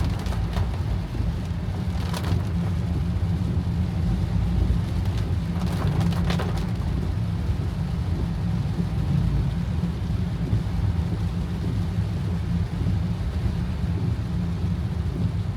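Heavy rain falling on a moving car, over the car's steady low rumble of engine and road noise. A few louder spatters of rain stand out about 2 and 6 seconds in.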